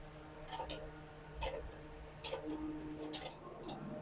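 Light metallic clicks and taps at irregular intervals, about seven in all: hand tools and parts being handled at a motorcycle's rear sprocket hub as its nut is undone.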